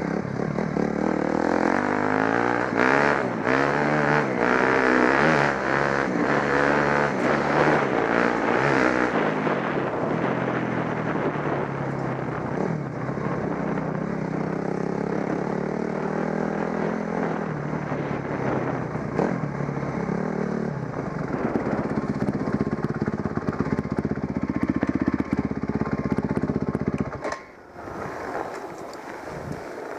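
Trail motorcycle engine running under load as it is ridden, its revs rising and falling repeatedly. Near the end the engine sound drops away sharply.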